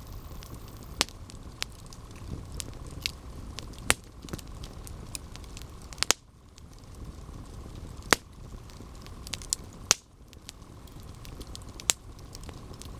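Campfire burning: a low rumble of flames with sharp, irregular crackles and pops from the burning wood, one or two a second.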